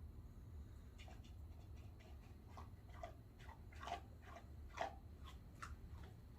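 A coyote crunching on food: an irregular run of short, faint crunches and clicks starting about a second in, the loudest two near the middle.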